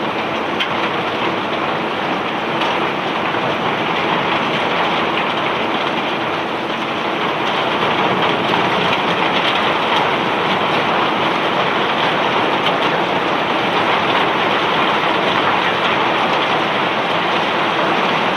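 Bulk cargo rock pouring off a self-unloading barge's conveyor: a steady, dense rattling rush with faint scattered clicks, a little louder from about eight seconds in.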